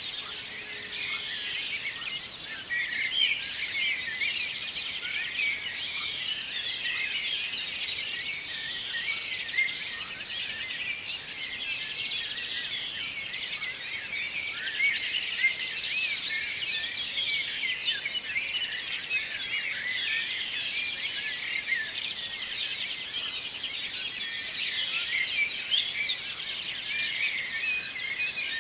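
Morning chorus of many songbirds: dense, overlapping chirps and trills from several birds at once, continuing without a break.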